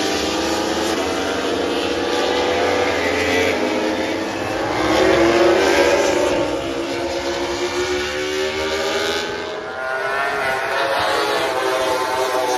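Racing motorcycle engine revving, its pitch rising and falling repeatedly as it accelerates and backs off, over a steady rush of noise. It is loudest about five to six seconds in.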